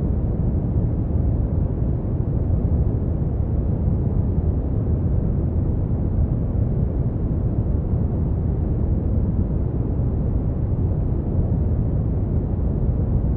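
Steady brown noise: a constant, deep rumbling hiss, strongest in the bass and fading toward the treble, with no changes or events.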